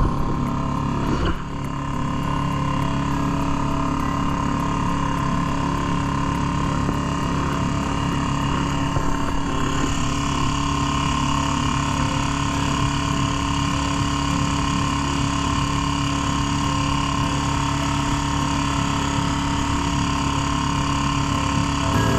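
A vehicle engine running steadily, a constant drone with a brief dip about a second in.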